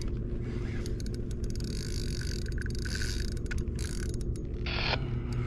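Fishing reel being cranked to bring in a hooked fish, its gears clicking and whirring steadily over a low hum. A short burst of hiss comes near the end.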